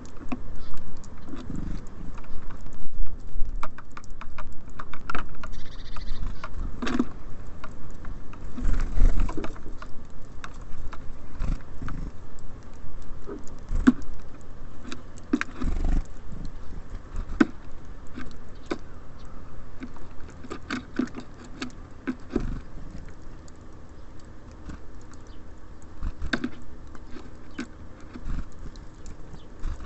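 Small birds feeding at a close-miked bird feeder: irregular pecking taps and scratching on the feeder, with a few heavier thumps, about 9 and 16 seconds in.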